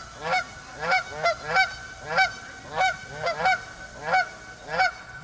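Geese honking repeatedly, about ten calls in quick succession at an uneven pace.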